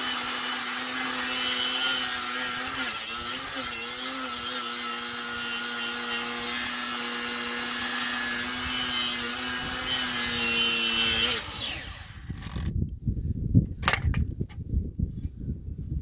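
A 4-inch angle grinder with a cutting wheel running at a steady whine and cutting into a seized steel CV axle shaft behind the wheel hub; its pitch sags briefly about three seconds in as the wheel bites under load. It shuts off suddenly about eleven seconds in, followed by low knocks and handling noises.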